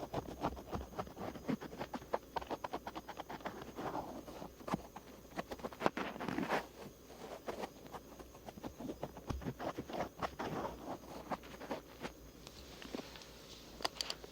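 Cotton swab scratching and rubbing over the outer ear, close to the microphone: a dense run of quick, soft scratches and taps, with a hissier brushing stretch near the end.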